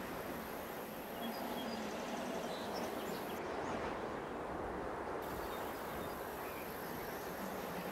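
Steady outdoor ambient noise, with a few faint bird chirps.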